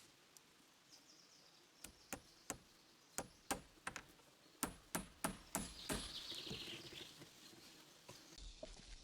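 Hammer blows on timber: a string of about a dozen sharp knocks, irregularly spaced a third of a second or so apart, a few with a faint metallic ring.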